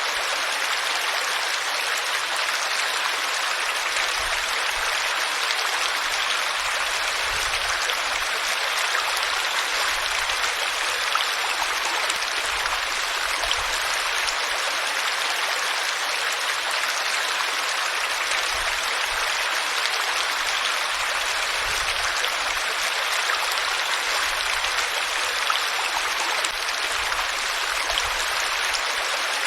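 Flowing water, a steady, even rush like a stream running over rocks.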